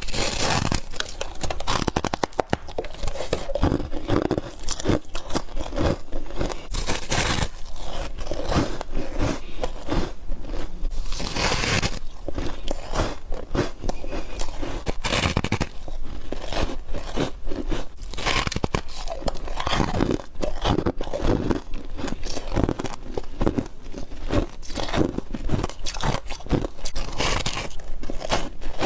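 A person biting into chunks of freezer frost and ice, with dense, irregular crunches one after another, heard close up.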